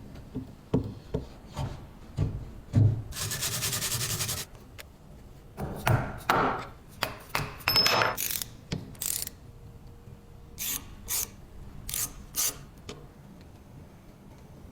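Hand work on a rusty object: a few knocks, a rasping stretch of a second or so, then a run of short scraping and rubbing strokes.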